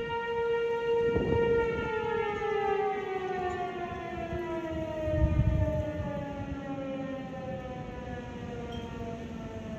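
American Signal T-121 outdoor warning siren winding down at the end of its activation: a steady tone that after about a second and a half falls slowly and steadily in pitch. About five seconds in, wind buffets the microphone with a brief low rumble.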